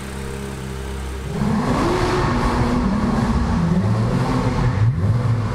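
Car engine idling, then revved repeatedly from about a second in, the pitch climbing and falling with each blip of the throttle.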